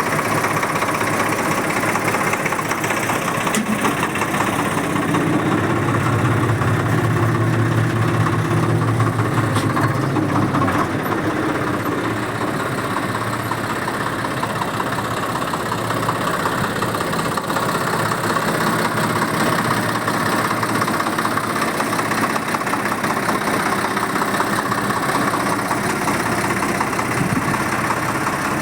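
Swaraj 855 tractor's three-cylinder diesel engine running steadily, growing louder for several seconds about five seconds in before settling back.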